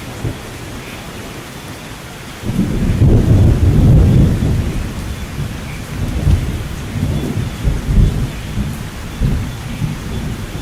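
Steady rain with rolling thunder: a deep rumble swells suddenly a couple of seconds in, peaks briefly, then keeps rolling and surging under the rain.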